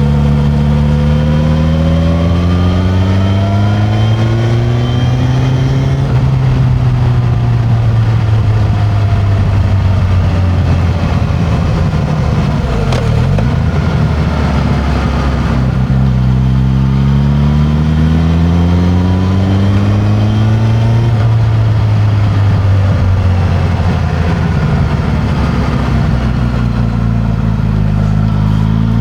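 Suzuki GSX-S1000's inline-four engine through its stock exhaust while riding, heard from the seat. The engine pulls up through the revs in a long rising climb twice, settling back down after each.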